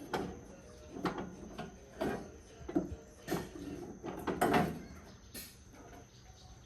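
A series of knocks and clatters, about one a second, with scraping between them, as of parts and tools being handled during hands-on repair work.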